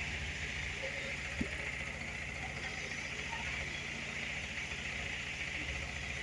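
Toyota Tamaraw FX engine idling steadily with an even low pulse, with one short click about a second and a half in.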